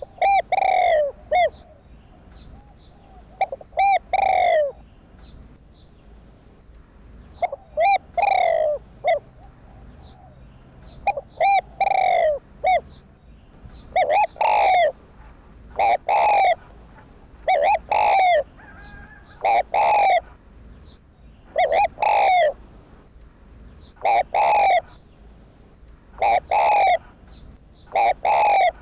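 Spotted dove cooing: its short phrase of a few low coos repeated about every two seconds. Faint small-bird chirps can be heard between phrases.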